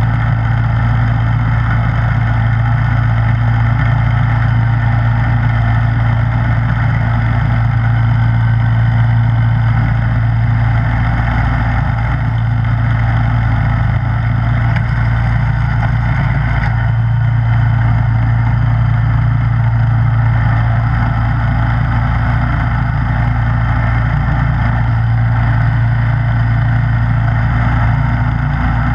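Snowblower engine running at a steady speed, with a constant low engine hum and a rushing noise above it; the sound shifts slightly about halfway through.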